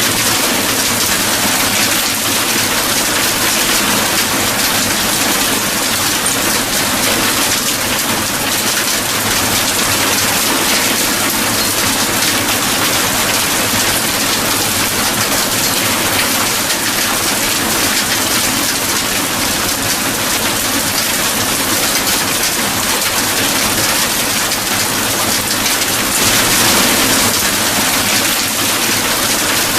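Steady rain falling, an even hiss that swells briefly near the end.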